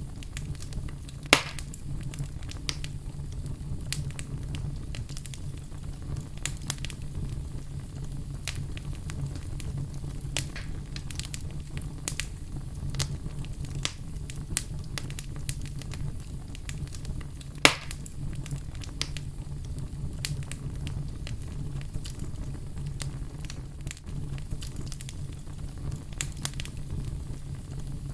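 Fire crackling steadily over a low rumble, with many small crackles and two loud pops, one about a second in and one about two-thirds of the way through.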